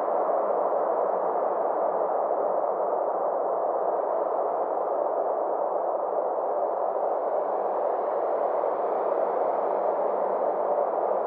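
Synthesized space ambience: a steady, soft rushing drone centred in the middle range, its upper edge slowly swelling and falling away over several seconds, like a slow sweeping whoosh.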